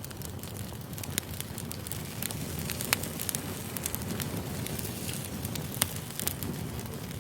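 Campfire burning: a steady low rush with frequent irregular crackles and sharp pops from the burning wood, a few of them louder.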